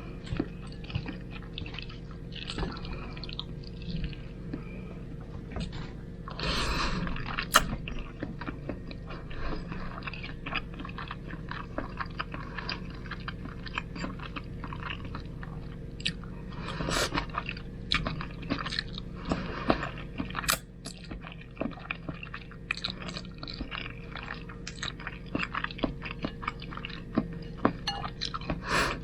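Close-up chewing and mouth sounds of someone eating spaghetti, a steady run of small wet clicks and smacks. There are louder noisy bursts about seven seconds in and again around seventeen seconds.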